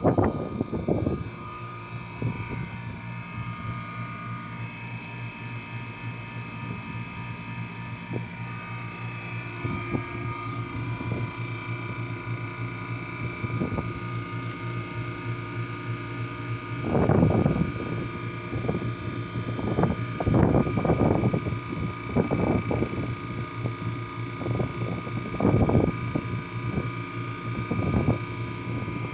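Carlyle 06D818 semi-hermetic reciprocating compressor running steadily with a constant hum and whine, in good running condition. Louder irregular bursts of noise break in several times past the middle.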